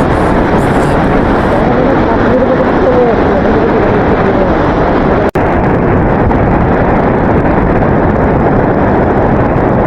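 Heavy wind rushing over the microphone of a motorbike in motion, a steady loud roar with no engine note heard. It cuts out for an instant a little past halfway.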